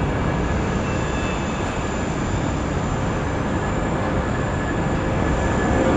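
Steady rushing vehicle noise with a few faint steady tones in it, growing slowly louder near the end.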